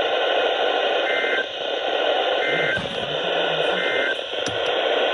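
Weather radio receiver with a steady static hiss, carrying three short bursts of two-tone digital warble about a second and a half apart: the SAME end-of-message code that closes a NOAA Weather Radio warning.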